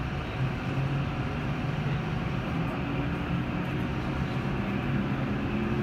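Cabin noise of a W7 series Shinkansen pulling out of a station: a steady low rumble and hum, with a few pitched tones from the train's drive joining in during the second half.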